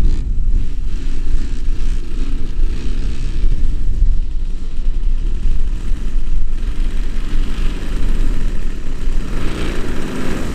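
Desert Aircraft DA50 single-cylinder two-stroke gas engine of a large RC aerobatic plane running at reduced throttle on the landing approach, growing louder near the end, with wind buffeting the microphone.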